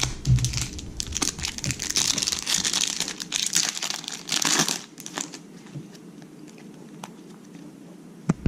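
Crinkling and tearing of a trading-card pack wrapper being ripped open and handled, dense for about five seconds, then a few faint clicks.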